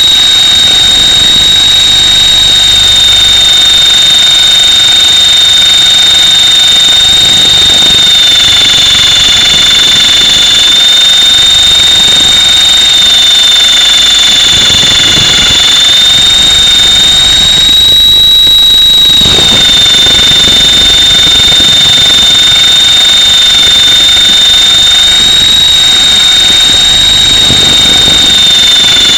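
Mini Titan E325 electric RC helicopter in flight, heard from a camera mounted on it: a loud, steady, high-pitched whine from its electric motor and drive gears over rotor noise. The pitch wavers slightly and rises briefly about two-thirds of the way through.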